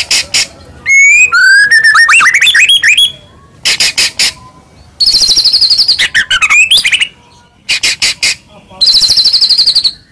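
White-rumped shama (murai batu) singing loudly in a run of varied phrases: sharp clicking notes, rising and falling whistled slurs, and fast rattling trills in the second half.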